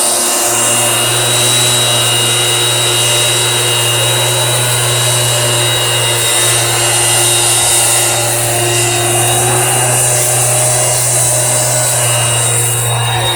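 Motorised garden sprayer running steadily, its engine-driven pump forcing fertiliser solution out through the spray lance with a continuous hiss.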